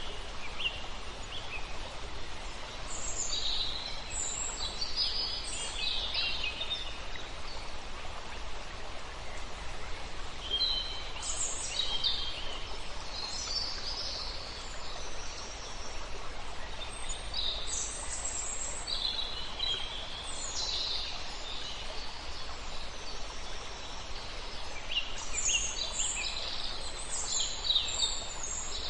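Several songbirds singing and chirping in short, repeated high phrases, in bouts with brief gaps between, over a steady hiss of flowing river water.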